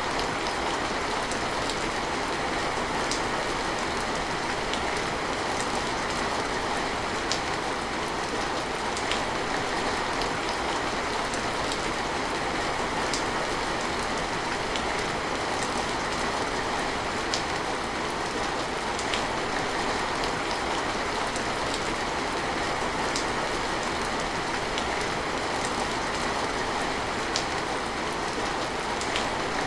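Steady rain falling as an even hiss, with scattered sharp drip ticks every second or two.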